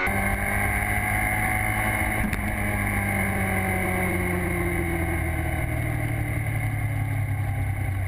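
Kawasaki ZX-6R inline-four engine running at low, steady revs under a rush of wind on the onboard microphone, its pitch sagging slowly as the bike eases off. There is a brief click about two seconds in.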